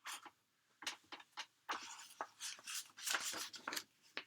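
Paper rustling and brushing in short, irregular strokes as a picture book's pages are handled and turned.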